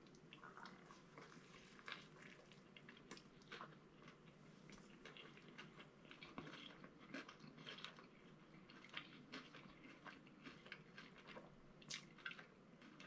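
Faint chewing of a bite of a KFC spicy chicken sandwich, an extra crispy fried chicken filet on a brioche bun: many soft, irregular mouth clicks and smacks, with a couple of sharper ones about two seconds in and near the end.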